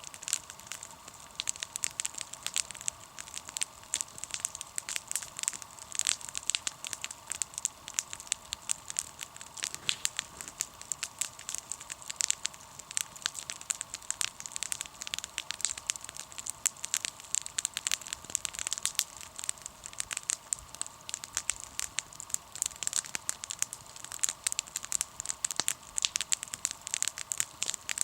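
Wood campfire crackling, with a dense run of irregular sharp snaps and pops.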